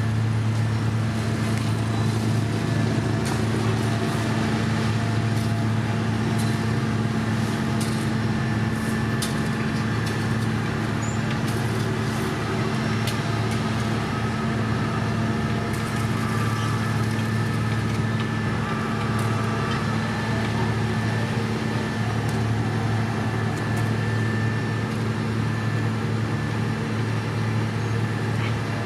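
Heavy road-construction machinery running steadily: a constant low engine hum that does not rise or fall, with scattered light clicks and knocks.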